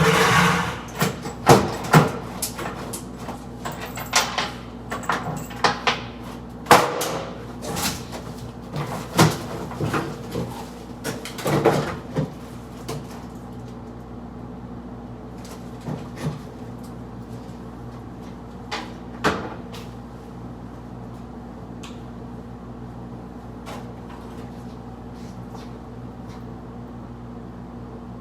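Knocks, clunks and rattles from handling an old mounted microwave and its mounting bracket. They come thick for about the first dozen seconds, then only a couple of isolated knocks, over a steady low hum.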